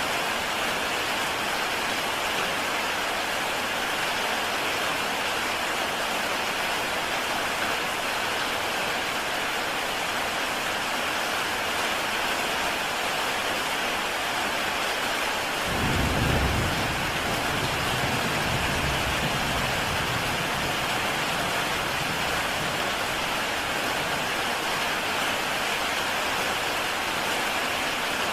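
Heavy rain falling steadily on a tile roof, an even hiss of drops. About halfway through, a low rumble of thunder comes in suddenly and fades away over several seconds.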